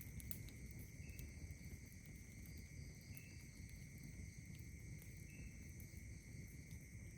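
Night insects trilling steadily at several high pitches, with a short higher chirp repeating about every two seconds. A few faint clicks from the crackling campfire and a low rumble sit underneath.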